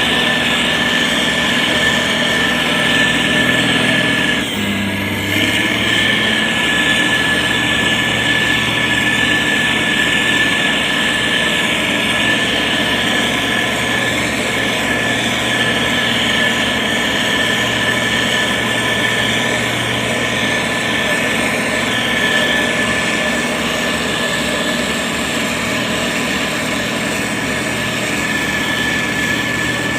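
Motor grader's diesel engine running steadily with a constant whine over it. Its note shifts briefly about four and a half seconds in.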